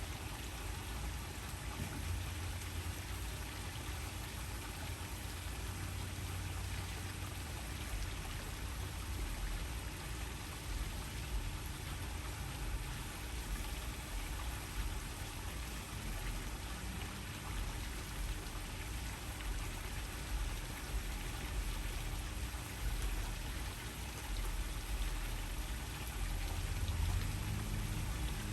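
Waterfall: a steady, unbroken rush of falling water, heaviest in the deep end.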